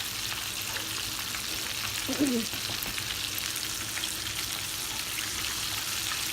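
Chicken legs frying in hot grease in a pan: a steady sizzle with fine crackling pops, the grease loud from freshly added pieces. A brief voice-like sound comes about two seconds in.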